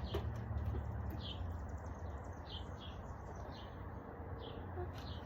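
A bird chirping repeatedly, short falling chirps coming about once or twice a second, over a steady low hum.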